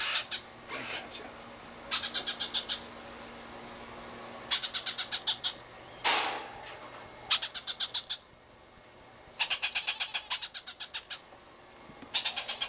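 Baby blue-fronted Amazon parrot chicks calling in bursts of rapid, high-pitched pulsed chirps, about ten pulses a second. The bursts repeat every couple of seconds, with a single harsher squawk about six seconds in.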